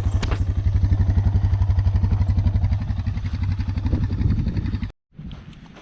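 Motorcycle engine running at a steady low speed, its rapid even firing pulse loud throughout; it cuts off abruptly about five seconds in.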